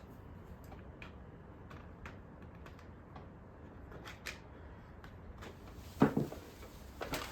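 Scattered light clicks and taps of small screws and plastic parts being handled, with one louder knock about six seconds in.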